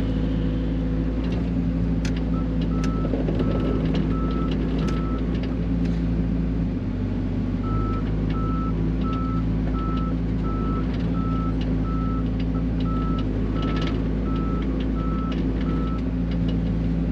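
Mini excavator's diesel engine running steadily while it digs in rocky ground, with occasional clanks. A machine alarm beeps at about two beeps a second in two runs: a short run a couple of seconds in, and a longer one from about eight seconds until near the end.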